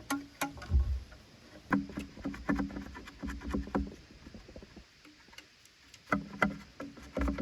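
Irregular knocks and clatter of wood being handled, with low thumps and a ringing wooden tone. The knocks pause for a moment after about four and a half seconds, then start again.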